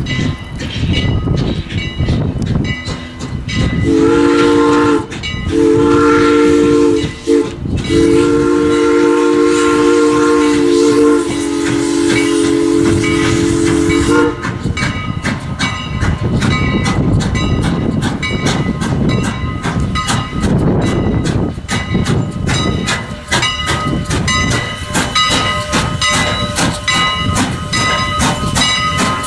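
Steam locomotive whistle sounding a chord, blown about four seconds in as two long blasts, a very short one and then a long held one of several seconds. Around it the passing train rumbles, and later its wheels clatter rapidly over the rail joints.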